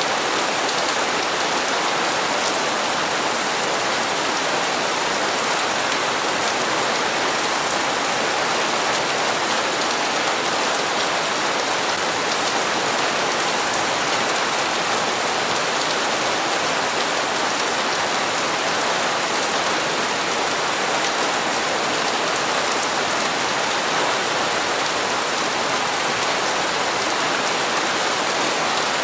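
Steady rain falling on hard surfaces, an even hiss with faint scattered drop ticks.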